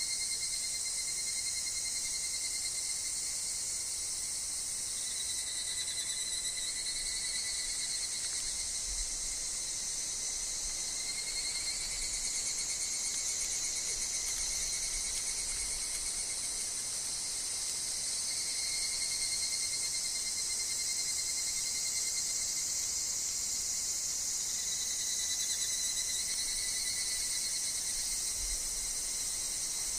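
Chorus of higurashi (evening cicadas) and other insects calling without a break: a steady high shrill, with a lower trilling note that comes and goes in phrases several seconds long.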